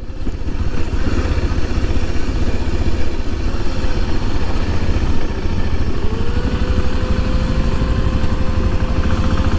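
Motorcycle engine running steadily while the bike is ridden. About six seconds in, a thin tone rises slightly and then holds.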